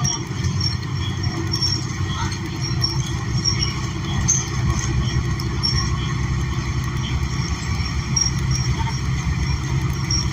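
Inside the cabin of a New Flyer XN40 transit bus, its Cummins Westport L9N natural-gas engine and drivetrain running as a steady low rumble, with short high-pitched squeaks or rattles scattered throughout.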